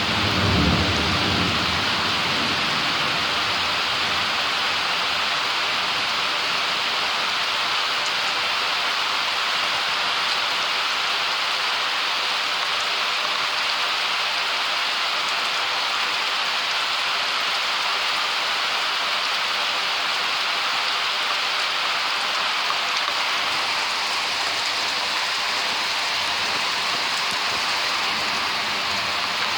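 Steady, heavy rain of a summer thunderstorm, with a low rumble of thunder dying away in the first second or two.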